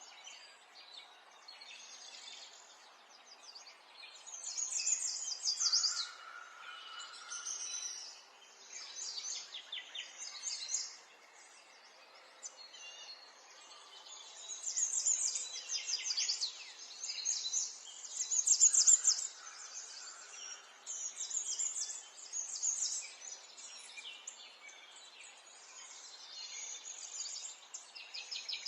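Small songbirds chirping, with bursts of rapid high trills every few seconds over a faint steady background hiss.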